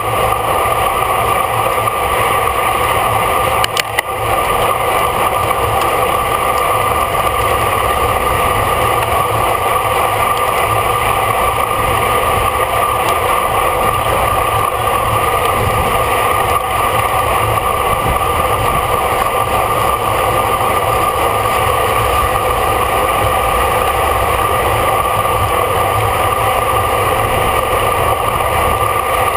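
Steady wind rush and road rumble on a bicycle-mounted camera's microphone while riding in a bike race, with a brief click or rattle about four seconds in.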